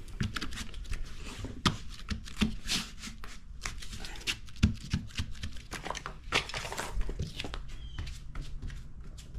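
Irregular knocks, taps and rustling from foam floor pieces being handled and pressed into place on a boat deck.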